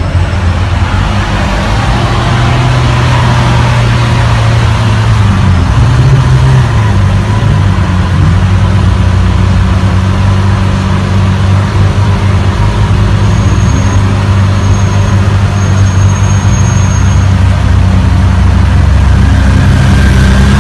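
Supercar engines running at low revs, a loud steady low rumble whose pitch steps up and down a little now and then.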